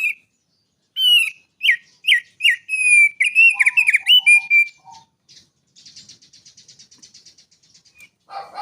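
A songbird singing a loud run of clear whistled notes with quick falling sweeps and high chirps. After that comes a softer, rapid buzzy trill that lasts about two seconds.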